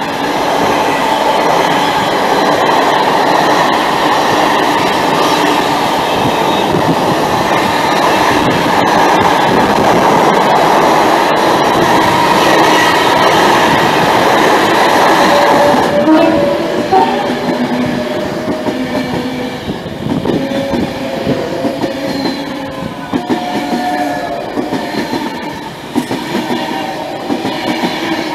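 Container wagons of an intermodal freight train rumbling and clattering past at close range for about sixteen seconds. As the freight clears, a Class 390 Pendolino electric train comes through, its passing marked by short whining tones and wheel knocks.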